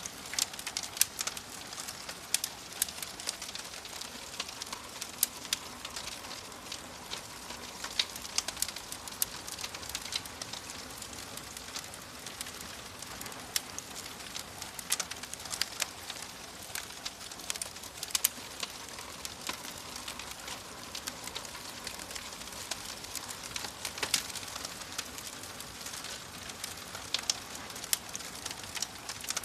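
Wood fire burning in a fireplace, crackling steadily with frequent irregular sharp pops and snaps over a soft hiss.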